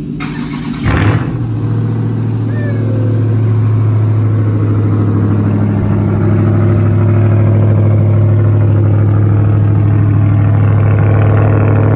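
2021 Ram TRX's supercharged 6.2-litre V8 starting: a short crank, a brief rev as it fires about a second in, then a steady, loud idle.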